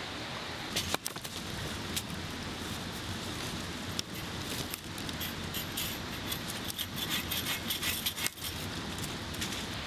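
Steady rush of a mountain stream, with scattered light clicks and a quick run of small clinks and rattles near the end, like gear or metal pieces being handled.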